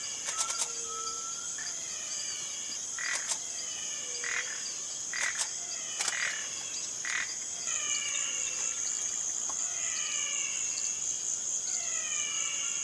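Tropical forest wildlife chorus: a steady high-pitched insect drone with short falling calls repeated over and over, and a few sharp clicks.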